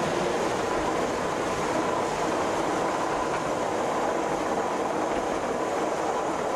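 Train running steadily: a continuous rail rumble and rattle with a faint steady high tone.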